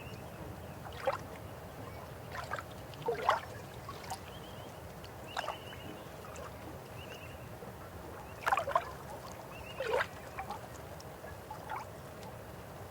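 River water flowing with a steady low rush, with sudden gurgles and splashes that come irregularly, several of them close together around the middle.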